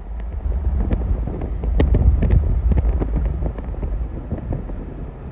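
Heavy rain, drops pattering irregularly on a surface, over a low rumble of wind on the microphone.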